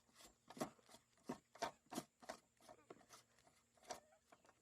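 Masking tape being pulled off a freshly painted small engine: a series of about eight short, crackling rips spread over four seconds.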